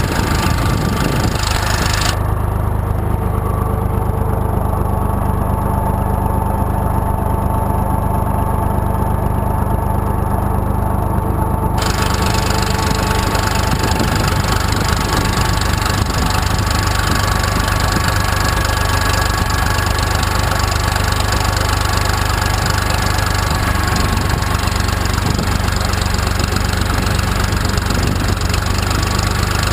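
IMT 2050 tractor's diesel engine running steadily at constant speed. A hiss above it drops away from about two seconds in for roughly ten seconds, then returns.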